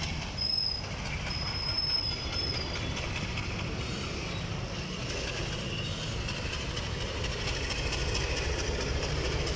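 WDP-1M diesel locomotive passing slowly with its engine running, followed by passenger coaches whose wheels clatter over the rail joints. A thin high wheel squeal sounds for a couple of seconds near the start.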